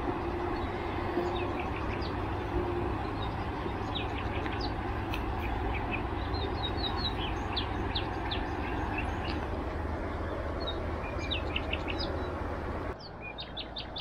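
Small songbirds chirping in short, repeated high notes over a steady outdoor hiss and low rumble. Near the end the background hiss drops suddenly.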